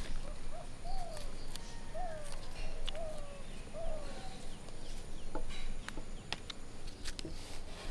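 A bird calling in the background: a short call that rises and then falls in pitch, about five times over the first four seconds. A few faint clicks are scattered through it.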